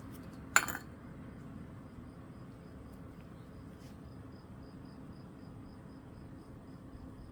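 A single sharp clink about half a second in, over a faint steady hum and a faint, rapid, evenly repeating high ticking.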